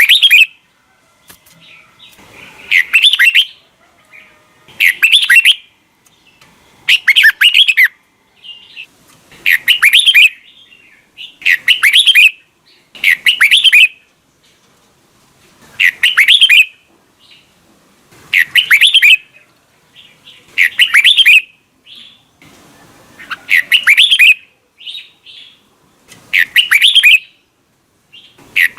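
Red-whiskered bulbul singing: short phrases repeated about every two seconds, with brief pauses between them.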